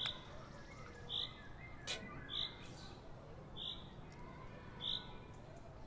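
A bird calling a short high note over and over, about once a second, with one sharp click about two seconds in.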